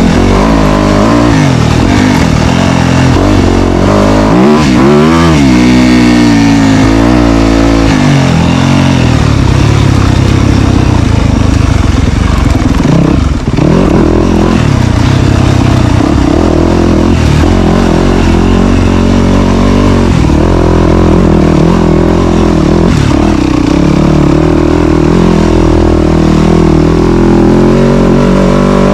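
Dirt bike engine running hard, its pitch rising and falling as the throttle is worked and gears change, with a brief drop about thirteen seconds in before it settles into steadier running.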